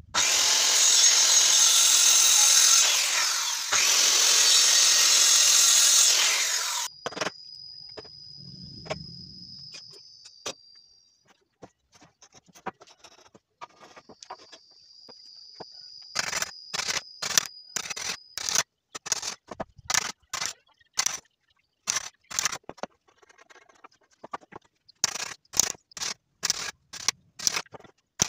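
Power tool working wood, loud for about seven seconds. Then a high steady whine comes in two stretches, followed by a long run of sharp, irregular knocks.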